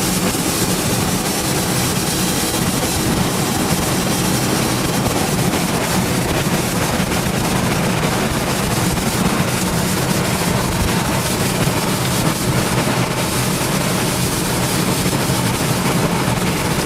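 Tornado winds rushing steadily and loudly around the armored, deployed intercept vehicle, a continuous train-like rush with no breaks.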